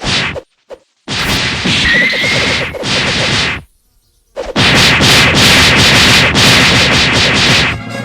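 Loud bursts of noise that start and stop abruptly: a short one, a brief blip, then two long ones of about two and a half and three and a half seconds, with dead silence between. They sound like edited-in sound effects.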